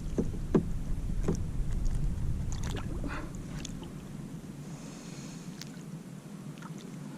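Water sloshing and splashing at the side of a kayak, with scattered light knocks against the hull, over a low rumble that fades about halfway through.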